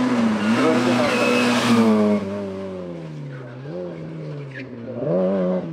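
Race car engine at high revs, loud at first. Its pitch drops and it grows quieter as it lifts off about two seconds in, with a brief rise in pitch, then it picks up again sharply near the end.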